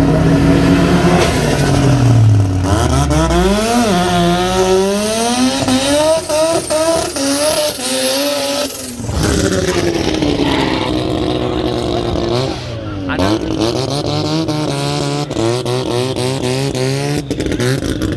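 Turbocharged 13B rotary engine at full throttle, its pitch climbing and dropping back several times as it shifts up through the gears, then falling away and rising again near the end.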